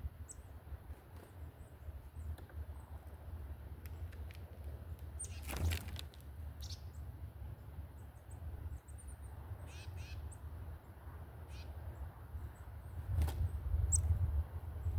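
Scattered short, high bird chirps and chip notes, with a few sharper calls near the end, over a steady low rumble; one brief rustle about six seconds in.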